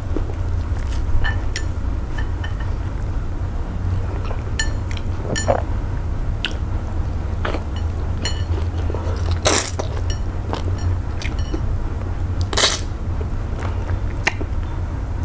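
Close-miked eating sounds: wet mouth clicks and chewing as eba with okro-melon soup is eaten by hand, with two louder brief mouth noises in the second half. A steady low hum runs underneath.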